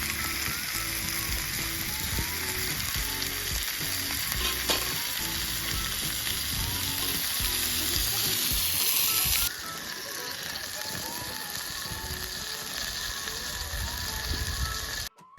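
Food frying and sizzling in a pan, a dense crackling hiss that drops to a lower level about two-thirds of the way through. A light background melody plays throughout.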